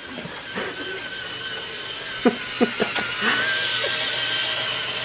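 Toy electric train running on its track, a steady motor whine with a wavering pitch, growing a little louder past the middle. Three quick sharp sounds come a bit over two seconds in.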